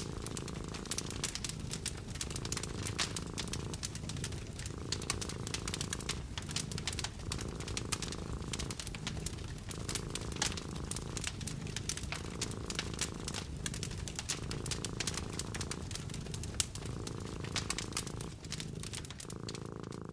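Cat purring steadily, the purr swelling and dipping about every one and a half to two seconds with its breaths, over a wood fire crackling with many small sharp pops.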